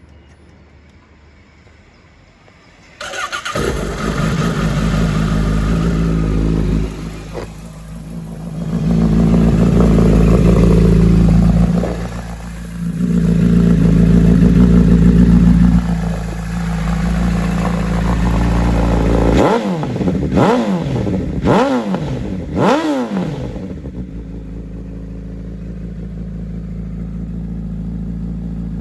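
2016 Honda CBR1000RR Fireblade's inline-four engine, through an Akrapovic aftermarket exhaust, starting about three seconds in and running. It is held at higher revs twice, then blipped four times in quick succession before settling back to idle.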